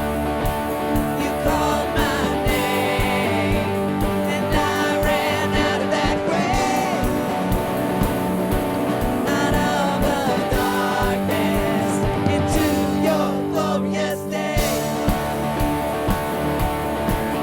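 Live worship band music: singing over guitars, with a steady drum beat.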